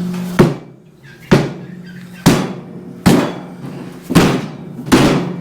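Repeated heavy blows knocking the end off a wooden shipping crate, about one a second, each dying away with a short ringing tail.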